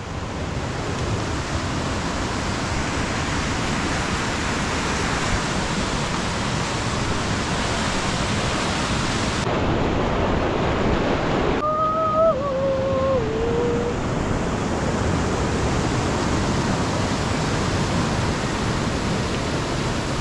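Steady rushing of water, an even roar with no pauses. A brief wavering tone that slides downward sounds a little over halfway through.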